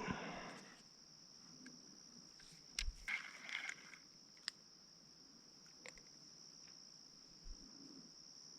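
Insects trilling in a steady, high, unbroken drone, with faint rustling about three seconds in and a few small clicks.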